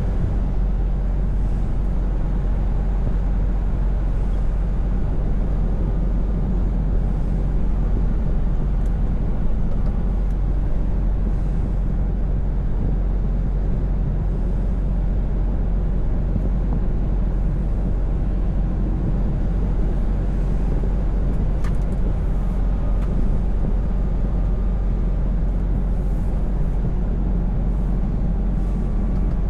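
Scania V8 truck under way: a steady engine drone with road and tyre noise, holding an even level.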